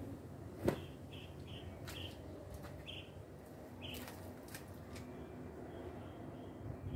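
A bird chirping in short high chirps every half second or so, with a few sharp clicks and knocks, the loudest about two thirds of a second in.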